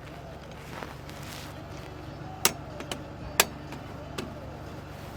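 Hammer blows on a stuck metal part, two sharp loud strikes and two lighter ones, which free the part. A steady low hum runs underneath.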